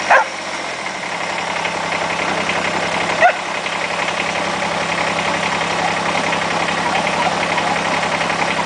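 Tractor engine running steadily and working through deep snow, growing gradually louder.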